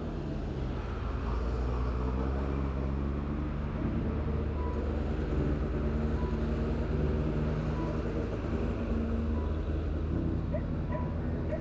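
A motor vehicle's engine running steadily at a low pitch, its note drifting slightly, over a haze of road noise.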